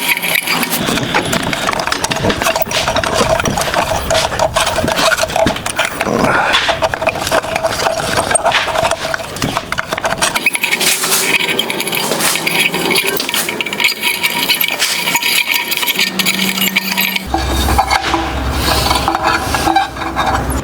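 Hand tools clinking, tapping and scraping on a steel rose blank as its petals are bent and folded: a dense, irregular run of small metallic clicks and knocks. A low steady hum joins in near the end.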